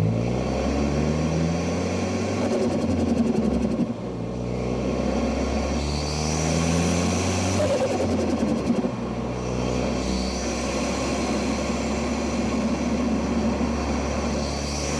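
2013 Ford Focus ST's turbocharged 2.0-litre four-cylinder, recorded at the intake and exhaust, pulling under acceleration. The engine pitch climbs twice, falling back after each climb, then holds steady through the second half.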